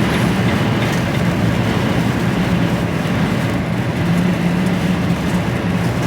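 Steady engine drone and road noise inside the cab of a moving HGV lorry.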